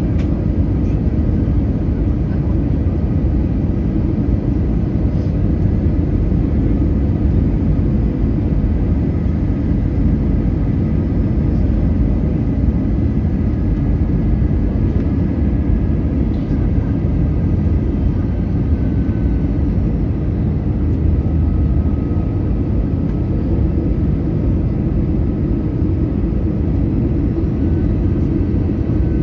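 Steady low rumble of engine and airflow noise inside the cabin of an Airbus A320 airliner, even throughout with a few faint steady tones above it.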